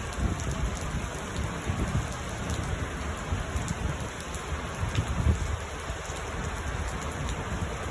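Steady rain falling, with an uneven low rumble of thunder underneath.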